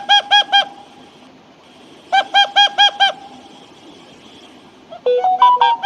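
A bird calling: quick runs of five or six short, clear, arching notes, each run lasting about a second, then a busier phrase of stepped notes near the end.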